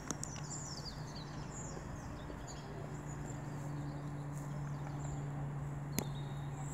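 Small birds chirping and singing over a steady low hum, with one sharp click about six seconds in.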